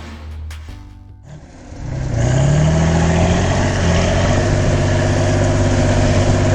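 Background music ends about a second in. Then a heavy vehicle's engine starts running loudly, rising in pitch as it revs for a second or so before settling into a steady run.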